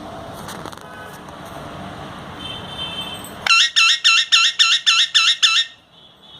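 A pet parrot giving a rapid run of about nine or ten loud, shrill, identical calls, roughly four a second. It starts about halfway through, lasts about two seconds and stops abruptly.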